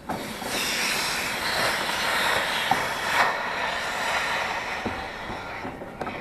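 Torch flame hissing steadily, starting abruptly, as it heats the copper lines to sweat the old filter drier's pieces off. It eases off near the end.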